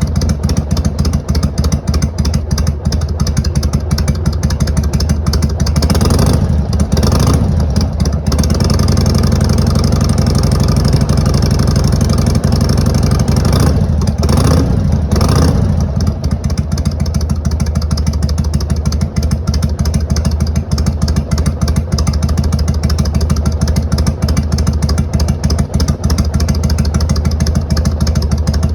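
2002 Harley-Davidson Sportster 883 Hugger's air-cooled V-twin idling through Motor Stage brass-end mufflers, a straight-pipe tone at lower volume, with the throttle blipped a few times about six seconds in and again around fourteen seconds.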